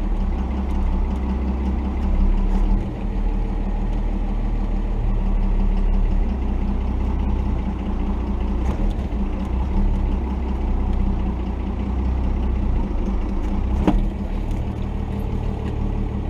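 A 1990 Dodge D250's Cummins 5.9-litre inline-six turbo-diesel running steadily at low revs as the truck crawls a rocky trail. A single sharp knock comes about two seconds before the end.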